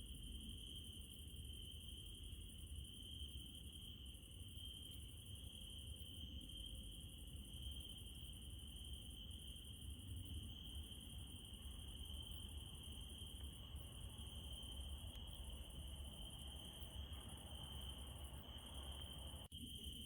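Crickets chirring in a steady night-time chorus, a constant high trill, over a faint low rumble. The sound drops out for an instant near the end.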